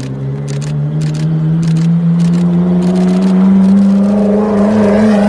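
Supercar engine running at low revs as the car rolls past at low speed, its note steady and rising slowly in pitch.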